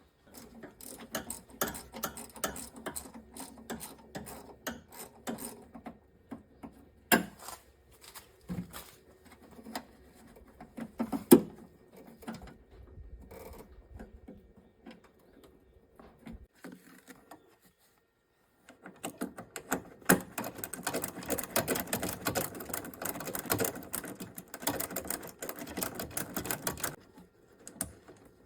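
Hand tools clicking, tapping and scraping against small metal parts, with a couple of louder knocks in the first half and a dense run of rapid clicking in the second half.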